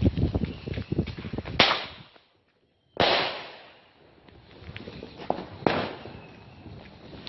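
Fireworks going off: a rapid crackling run of sharp bangs, then after a brief silent gap a loud bang about three seconds in with a long rushing decay, and two more single bangs later on.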